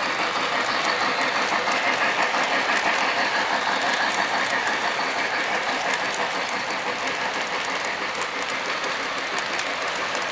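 Lionel LionChief O-gauge model of the Pere Marquette 1225 steam locomotive running on track, a steady rush with fine clicking of the wheels over the rails, easing off a little about halfway through.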